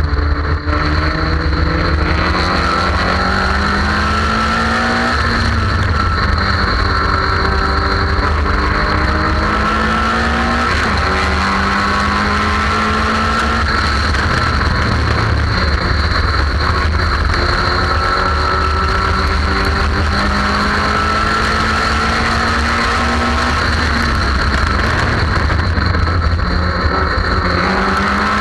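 Car engine at racing speed heard from on board, climbing in pitch under acceleration and dropping back at each gear change, about six times over, under steady wind and road noise.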